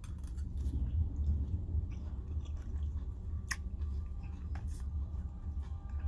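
A person chewing salad, with scattered small crisp clicks of eating, over a steady low rumble.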